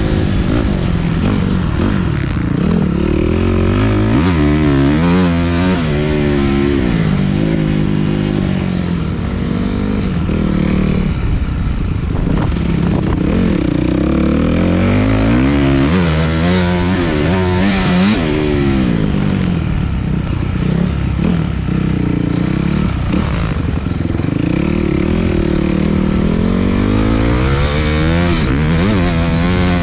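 Dirt bike engine revving up and down as it is ridden, its pitch climbing and dropping every few seconds as the throttle is opened and closed.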